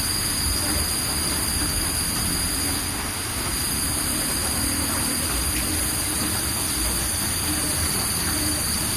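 Steady outdoor background noise: a low rumble with a constant high-pitched whine over it, unchanging throughout.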